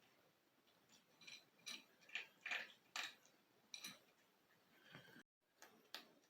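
A cat eating its food: faint, irregular chewing clicks and smacks, about a dozen of them.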